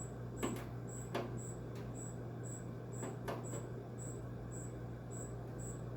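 A few faint, scattered clicks and scrapes of a screwdriver working stiff, rusty flathead screws in an air conditioner's metal casing, the tip slipping off the screw heads, over a steady low hum.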